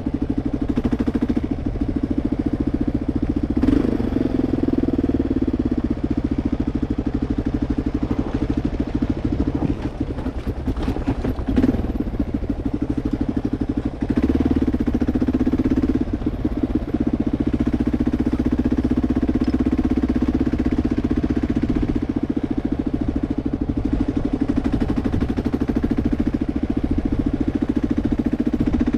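2004 Kawasaki KLR 650's single-cylinder four-stroke engine running steadily while the bike is ridden, with a few sharp clicks about ten to twelve seconds in.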